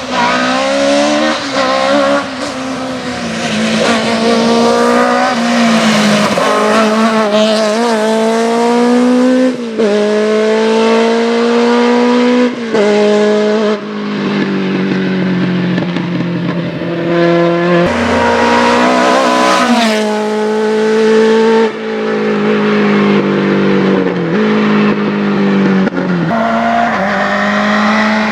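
Rally car engine under hard acceleration, its pitch climbing and then dropping sharply several times as it runs up and comes off the revs.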